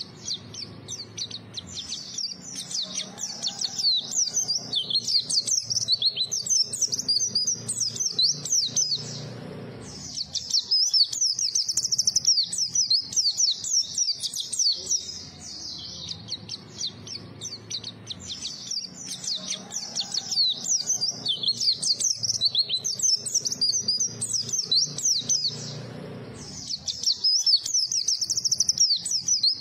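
White-eye (pleci) singing a fast, continuous high twittering song of rapid chirps. The song breaks off briefly about ten seconds in and again near the end.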